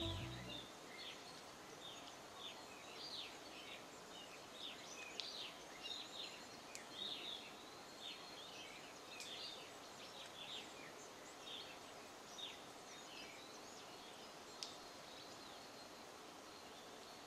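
Faint forest ambience of many short, high chirping bird calls that slide downward, thick for the first ten seconds or so and thinning out toward the end, over a steady hiss. Background music fades out right at the start.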